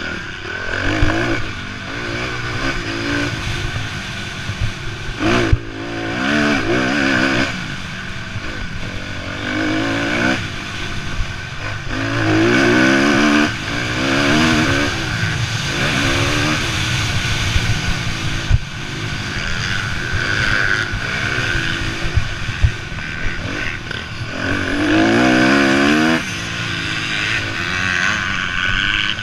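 Several motocross bikes racing, engines revving up and falling away over and over as riders open and close the throttle and shift through the gears, with more than one bike often heard at once.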